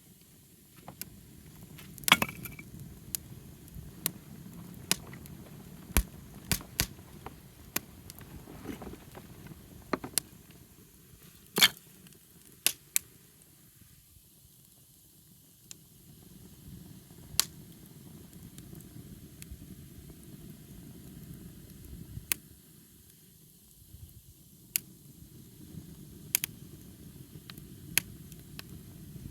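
Wood fire crackling: irregular sharp pops, the loudest about two and twelve seconds in, over a low rush of burning.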